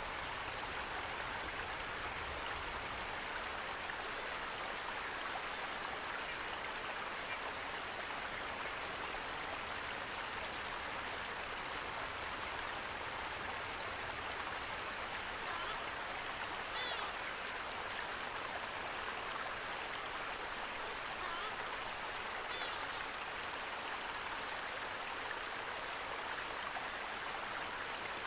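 Steady rushing of flowing water, with a few faint, brief high chirps about two-thirds of the way through.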